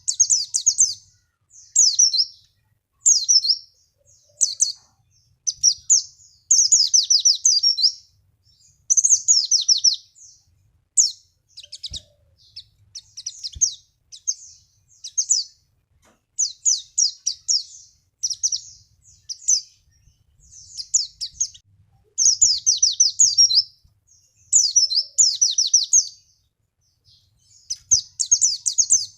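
White-eye (pleci) singing: short, high, rapid warbling phrases about a second long, repeated over and over with brief pauses. It is a lure song played to get other white-eyes to answer and sing.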